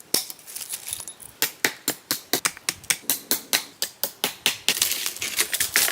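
A fast, even series of sharp clicks or knocks, about five a second, starting about a second and a half in after a few softer, scattered ones.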